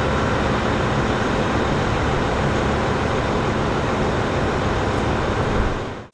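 Steady vehicle running noise: a dense, even din heavy in the low end, with no breaks or distinct events.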